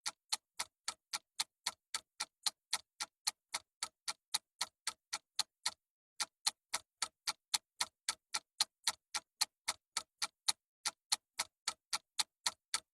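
Ticking clock sound effect counting down a timer: even, sharp ticks, about four a second, with a short break about six seconds in.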